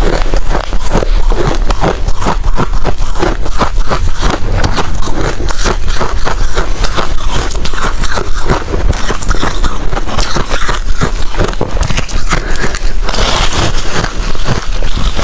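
Close-miked chewing of ice: a rapid, irregular run of loud crunches as ice is bitten and ground between the teeth, with a brighter, crackly crunching stretch near the end.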